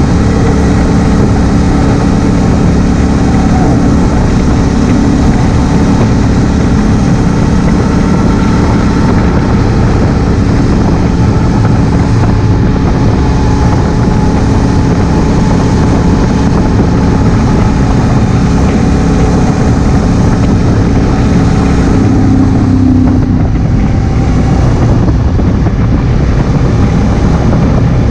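2016 Honda Africa Twin CRF1000L's parallel-twin engine running steadily under way, heard from a helmet-mounted camera.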